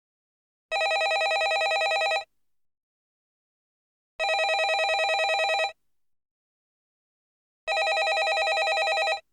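Landline telephone bell ringing: three rings of about a second and a half each, one every three and a half seconds, each a fast trilling of several bright tones, with silence between.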